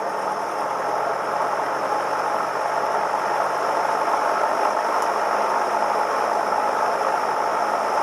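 Cessna 172M's four-cylinder Lycoming O-320 engine and propeller running steadily, heard inside the cabin.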